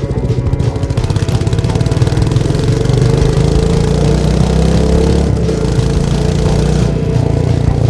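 Royal Enfield Meteor 350 single-cylinder engine and exhaust running while riding, with a rapid even thump of firing pulses. It gets louder about two to three seconds in and then holds steady.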